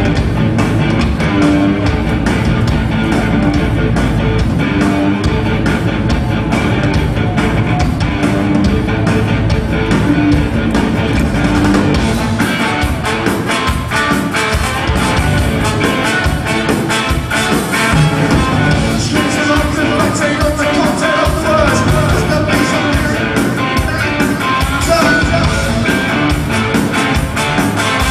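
Ska-punk band playing live, with electric guitar, bass and drums; the drum hits come through more strongly from about halfway through.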